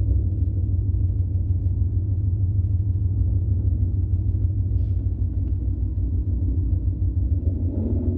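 Ford Mustang GT's 5.0 V8 with an aftermarket full exhaust, idling with a steady low rumble.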